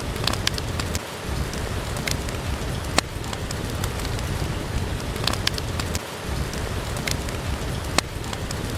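Steady rain with a low rumble underneath, mixed with the scattered sharp crackles and pops of a wood fire burning in a fireplace.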